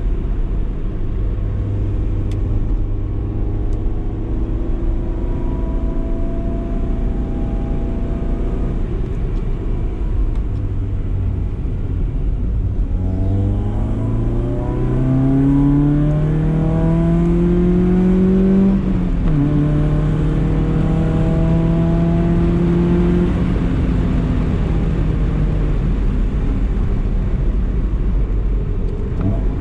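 BMW E30 318is's four-cylinder engine on the move: running steadily at low revs, then about halfway through revving up under acceleration, dropping in pitch at a gear change, pulling again briefly and easing off near the end. A steady low road rumble lies beneath it.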